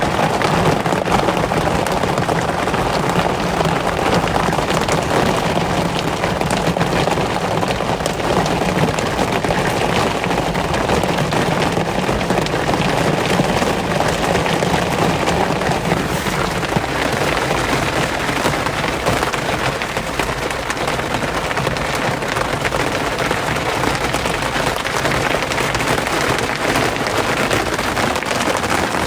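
Steady rain: a dense patter of countless drop ticks over an even hiss, its lower part easing off about halfway through.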